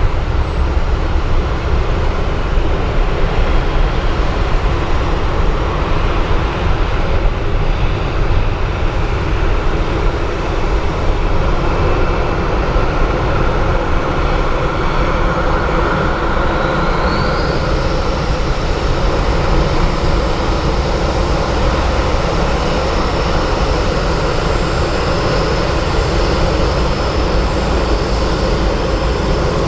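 Jet airliner engines, a loud steady roar with deep rumble. About two-thirds of the way through, a high turbine whine rises and then holds.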